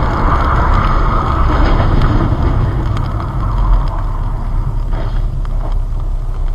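Steady vehicle driving noise, road and wind rumble as picked up by a dashcam, with no clear crash impact.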